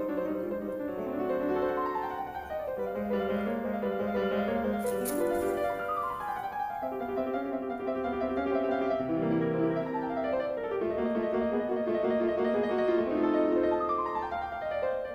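Background piano music: chords with a downward-running figure repeating every few seconds.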